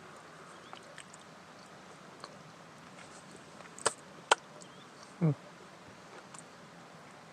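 Quiet background with a few faint ticks, two sharp clicks close together a little under four seconds in, then a short low sound falling in pitch about a second later.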